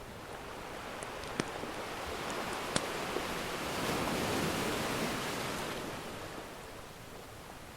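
Ocean surf: one wave washes in, swelling to a peak about halfway through and then receding. A few sharp pops from a crackling wood fire come near the start.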